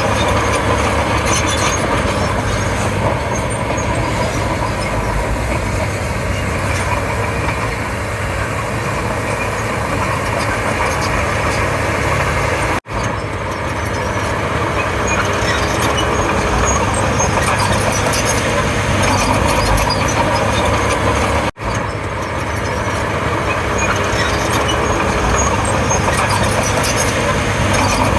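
Komatsu D31P crawler bulldozer's diesel engine running steadily under load while it works, with two very brief breaks in the sound.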